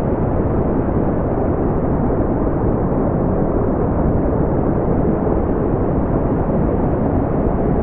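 Steady brown noise: an even, unchanging rumbling hiss, strongest in the low frequencies and falling away toward the highs.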